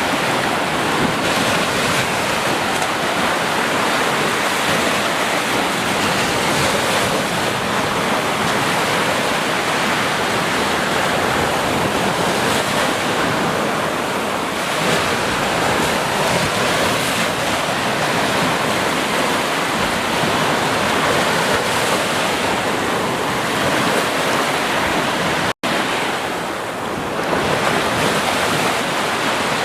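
Ocean surf washing onto a beach in a continuous, steady rush of waves. The sound cuts out for an instant about 25 seconds in, then carries on.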